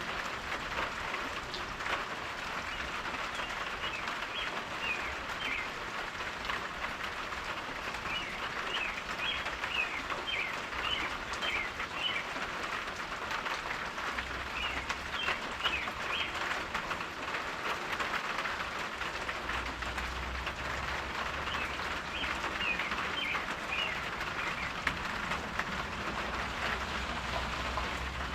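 Steady rain falling, with a bird chirping in several short runs. A low rumble comes in about halfway through and grows stronger near the end.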